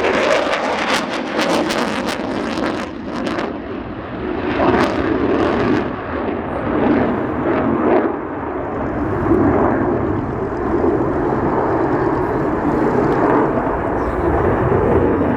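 Eurofighter Typhoon FGR4's twin EJ200 jet engines roaring during a display pass, the loudness swelling and easing as it flies. It crackles sharply for the first three seconds.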